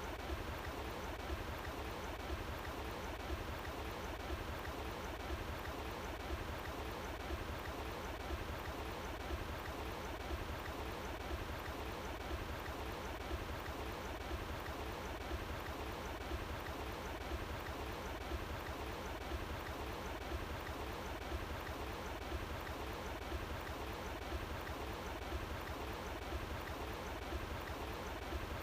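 Running water flowing steadily, an even rushing sound that does not change.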